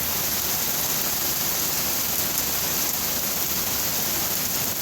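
Heavy rain coming straight down in a steady downpour, a constant hiss of rain on the ground and pavement.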